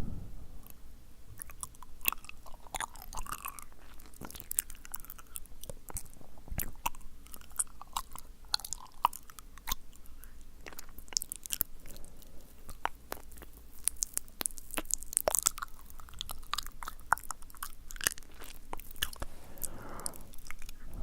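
ASMR mouth sounds made close to the microphone: wet, sticky tongue clicks and lip smacks coming in quick, irregular runs, with a few soft breaths among them.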